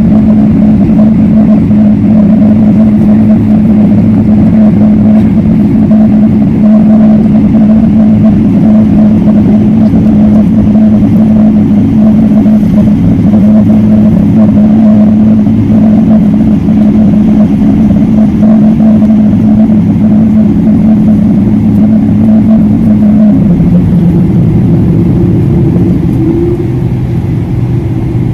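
Jet engine noise of a Boeing 777-300ER's GE90 turbofans, heard from inside the cabin as a loud, steady drone with a hum in it. About two-thirds of the way through, the hum drops in pitch, and a higher tone rises in near the end as the engines change power.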